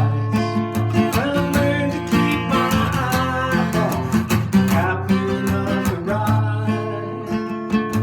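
Instrumental music: acoustic guitar picked and strummed at a steady pace, with no singing.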